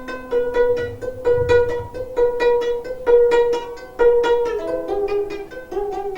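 Solo gayageum (Korean plucked zither) playing a quick run of plucked notes, many of them repeating the same pitch. In the last couple of seconds several notes waver and bend in pitch.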